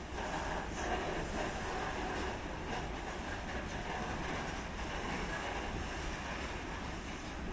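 Freight train rolling in, a steady rumble and rattle of its wagons on the rails.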